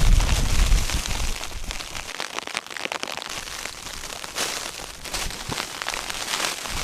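Blizzard wind buffeting a tent: a heavy low rumble that dies away about two seconds in, over a steady hiss full of dense pattering ticks of snow striking the tent fabric.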